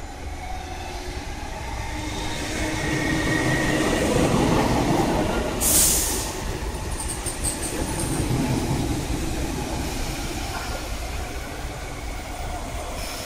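East Rail Line MLR electric multiple unit running into the station platform and slowing, its wheels and motors rumbling louder as the cars pass, with a short sharp hiss about six seconds in and faint high squeaks just after.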